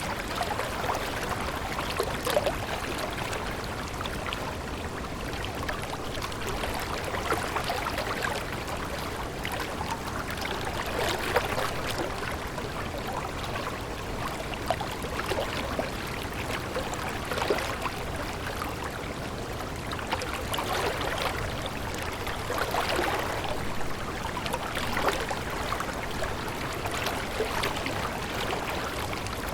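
Water of a small stream flowing steadily, with constant small gurgles and splashes.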